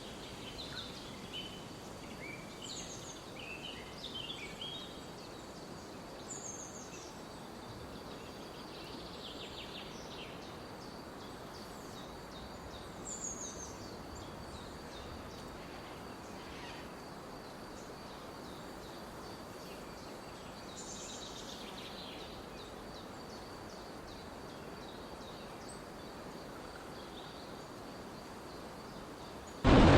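Forest ambience: small birds chirping in short scattered calls, busiest in the first few seconds, over a steady soft hiss and a thin, steady high whine. Just before the end, a loud rushing noise cuts in abruptly.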